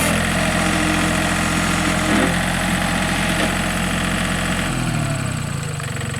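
John Deere 3320 compact tractor's three-cylinder diesel engine running steadily, its note changing and easing off slightly about five seconds in.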